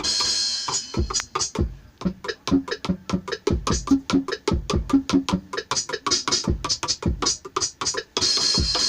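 Octapad electronic drum sounds played in a quick run of pad strikes: kick and snare-type hits mixed with pitched tom-like hits, a cymbal crash at the start and another near the end.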